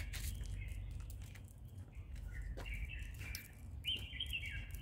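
Birds chirping: short phrases of falling chirps, three times, over a steady low background rumble, with faint scattered clicks.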